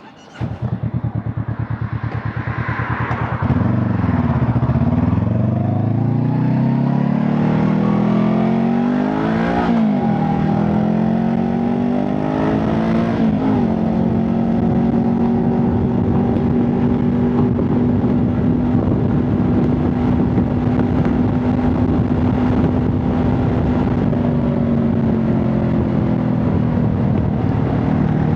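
Honda CB500 Hornet's parallel-twin engine and exhaust: it comes in just after the start and runs briefly at a steady beat, then revs up as the bike pulls away, with two upshifts (near 10 s and 13.5 s) before settling into a steady cruise.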